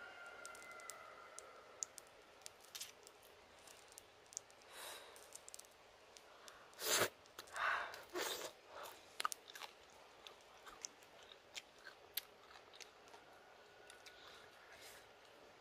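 A person chewing and crunching grilled coconut worms close to the microphone: small wet clicks throughout, with the two loudest crunches about halfway through, a second apart.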